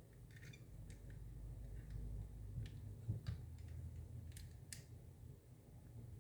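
Light scattered clicks and taps, about ten of them, from a plastic Xbox controller being handled and turned over during inspection, the sharpest a little after three seconds, over a faint low hum.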